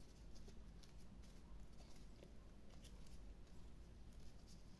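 Near silence, with faint light rustles and ticks of ribbon being wrapped around the centre of a hair bow.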